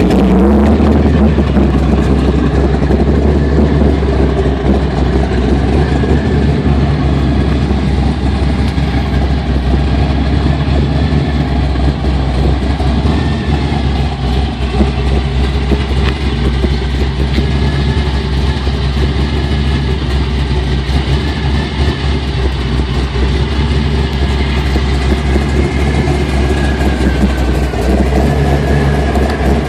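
Chevrolet 502 cubic-inch big-block V8 idling steadily, its revs dropping back to idle right at the start.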